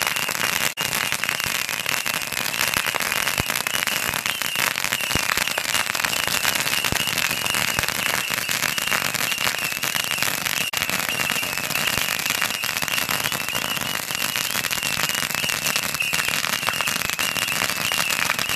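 A firecracker roll and Saturn missile batteries going off together: an unbroken, rapid crackle of small bangs with a steady, slightly wavering high whistle running through it.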